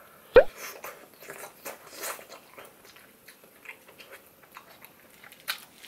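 Close-miked mouth sounds of eating grilled scallop in melted cheese and butter: one loud, sharp mouth noise as the bite goes in about half a second in, then soft, wet chewing with many small clicks and crackles.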